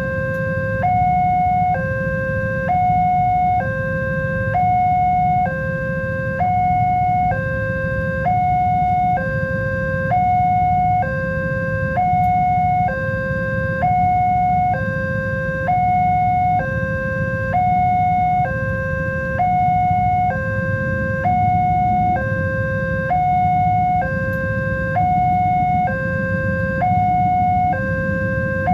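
Railway level-crossing warning alarm, an electronic two-tone signal alternating steadily between a higher and a lower tone, each held about a second, warning that a train is approaching. A steady low rumble runs beneath it.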